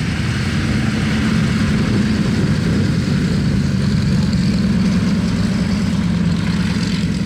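An engine running steadily at idle: a constant deep hum with no change in speed.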